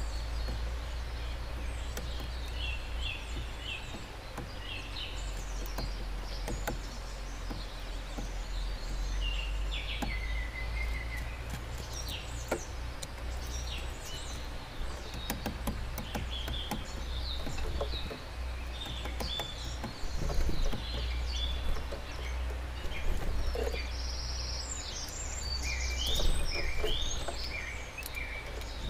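Small songbirds chirping and calling, short high notes scattered throughout, with a few faint clicks, over a steady low background rumble.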